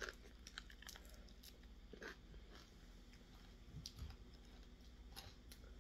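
Faint chewing of a fried chicken wing: scattered small crunches and mouth clicks.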